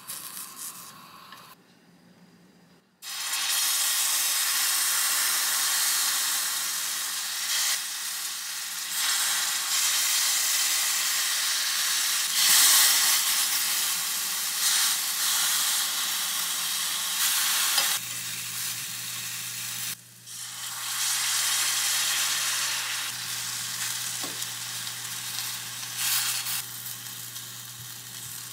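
Tempeh slices sizzling in a frying pan, starting abruptly about three seconds in after a quiet opening. Later they sizzle in a soy sauce and allulose glaze as they are turned with chopsticks, with a brief break about twenty seconds in.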